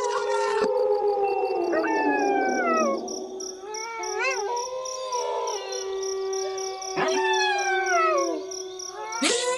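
Several wolves howling together in a chorus: overlapping long howls at different pitches, some held steady and some sliding down, with a short wavering call about four seconds in.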